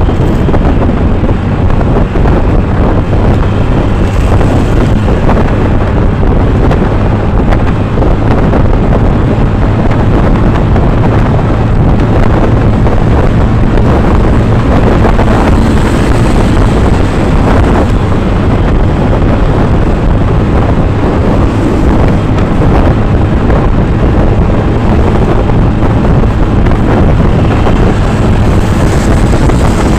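A vehicle engine running steadily on the move, with heavy wind noise on the microphone over a low, even hum.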